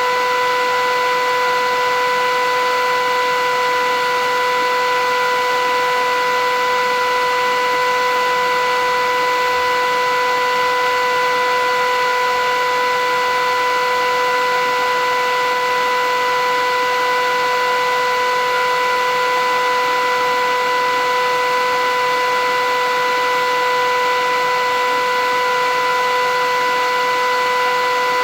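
Philips 8000 series vacuum cleaner running steadily: a constant motor whine, one fixed pitch with its overtones, over an even rushing noise, with no change in speed.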